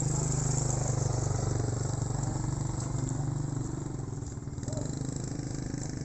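A motor vehicle engine running with a steady low hum that eases off about halfway through.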